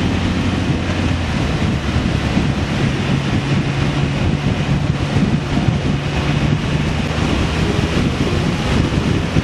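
Wind rushing over the microphone of a moving vehicle, with a steady engine drone underneath.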